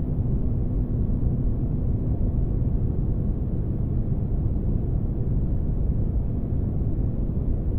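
Synthetic spaceship ambience: a steady, deep rumbling noise with a faint constant hum, made for sleep or background.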